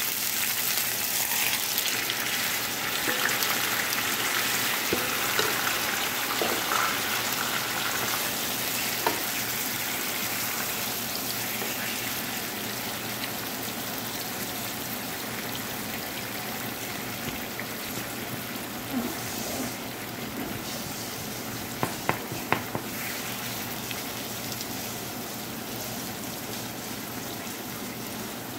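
Marinated chicken pieces frying in hot ghee in a frying pan: a steady sizzle that slowly gets quieter, with a few sharp knocks about three-quarters of the way through.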